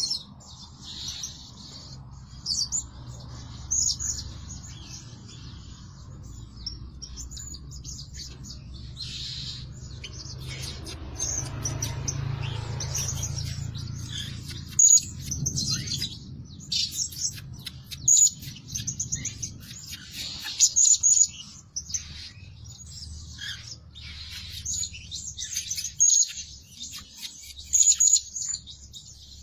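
Blue-crowned hanging parrot calling: many short, shrill high-pitched chirps, often in quick runs, over a faint low rumble.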